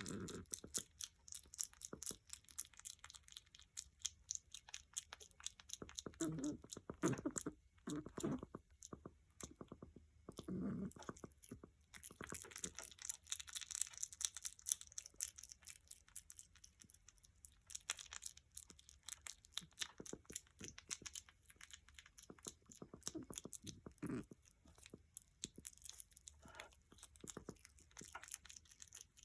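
A hyrax chewing banana: a fast run of small, faint chewing clicks, with a few louder stretches of chewing.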